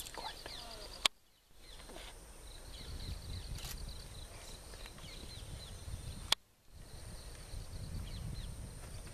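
Bird calls: many short falling chirps and a rapid trill, over a low rumble. Two sharp clicks come about a second in and about six seconds in, each followed by a brief drop to near quiet.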